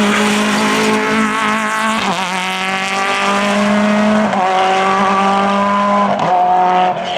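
Groupe F2000 rally car engine accelerating hard. Its pitch climbs and falls back sharply at each of three gear changes.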